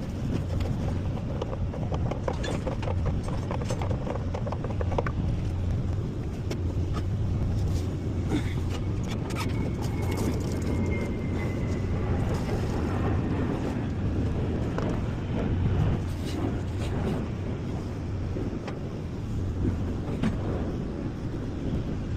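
An engine running steadily, a low even hum, with scattered light clicks and knocks over it.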